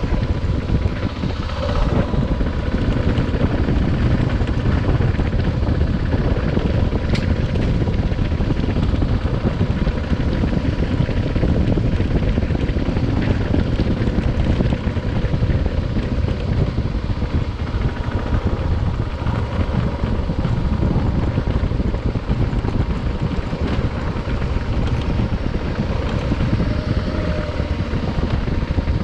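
Adventure motorcycle being ridden: steady engine noise under heavy wind rush on the microphone.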